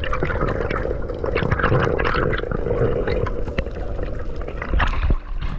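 Water gurgling and bubbling around a camera during a dive, with many small crackles and clicks.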